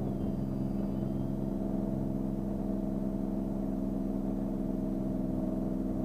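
Beechcraft Bonanza's single piston engine and propeller running steadily at climb power just after takeoff, heard inside the cabin as an even, unchanging drone.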